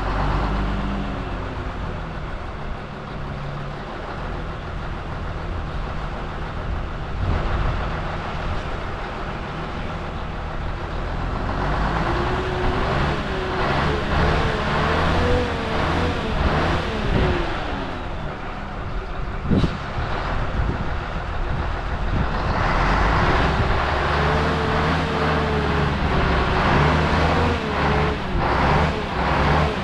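A vehicle engine running, its pitch rising and falling as it revs, once around the middle and again near the end. A single sharp click a little after the middle.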